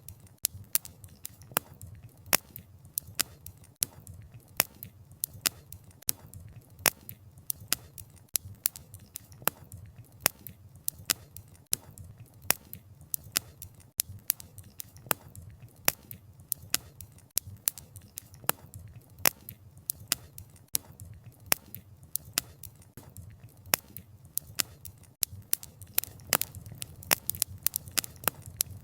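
Wood fire burning, with frequent, irregular sharp pops and snaps of burning wood over a low steady rumble of flames.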